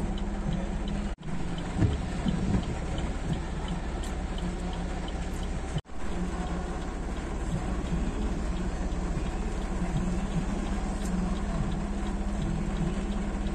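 Heavy rain and traffic on a flooded street: a steady wash of rain and water noise with a low engine hum under it. The sound drops out for an instant twice.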